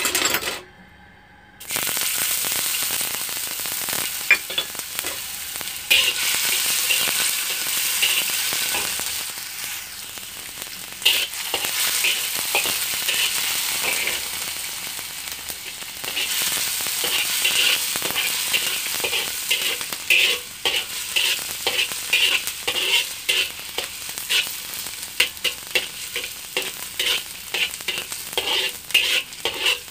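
Minced garlic sizzling in hot oil in a wok, starting suddenly a couple of seconds in as it hits the oil. A slotted metal spatula stirs and scrapes it around the pan, the strokes growing quick and rhythmic in the second half.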